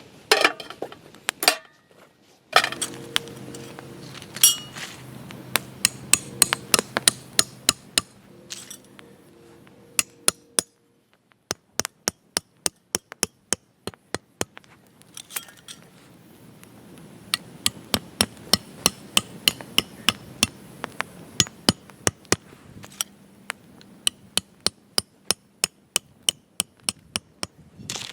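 Repeated hammer blows in several runs, about two a second, driving metal stakes into the ground.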